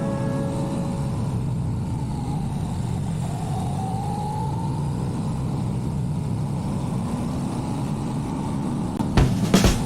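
Motorcycle running along the road with a steady rush, as of wind on the mic. Its engine note rises for a couple of seconds about three to four seconds in as it accelerates. Music comes in near the end.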